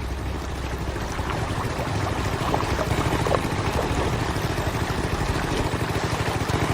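Steady rushing of moving water.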